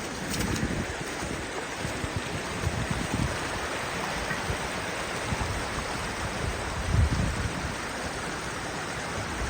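Steady rush of creek water flowing through the canyon, with low gusts of wind buffeting the microphone, the strongest about seven seconds in.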